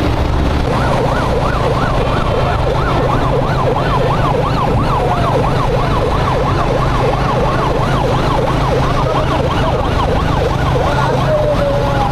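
Emergency vehicle siren on a fast yelp, warbling up and down about three times a second, over the steady drone of a motorcycle engine and wind on the ride.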